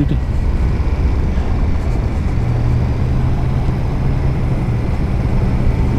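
Motorcycle engine running at a steady cruising speed, with wind and road noise on a helmet-mounted camera.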